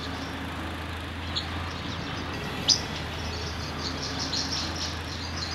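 Birds chirping over a steady background hiss and low hum, with one louder chirp about three seconds in and a run of quick chirps after it.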